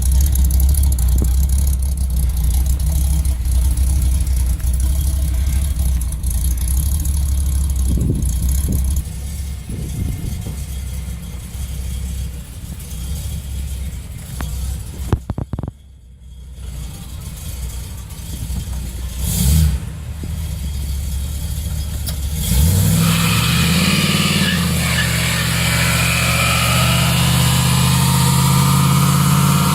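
Chrysler slant-six inline six-cylinder engine running with a low, steady note. About three-quarters of the way through it starts up again, its pitch rising briefly before it settles into a steady idle.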